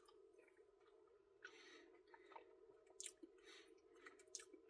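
Faint mouth sounds of eating ice cream: a few soft smacks and clicks, over a low steady room hum.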